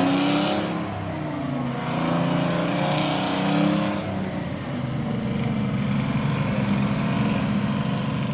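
Truck engine running, with the revs rising and falling back twice in the first half, then running steadily.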